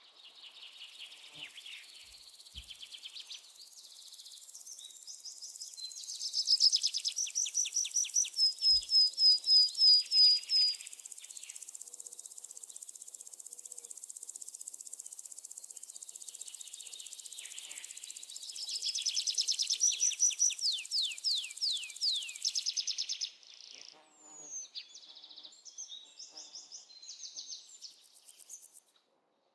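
Birds calling in series of quick, high notes that each fall in pitch, loudest in two runs in the first and second halves, over a steady high insect drone that stops about 23 seconds in.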